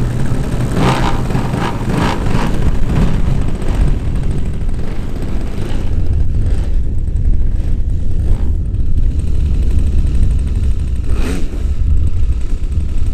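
A piston engine running steadily, a low rumble that holds fairly even.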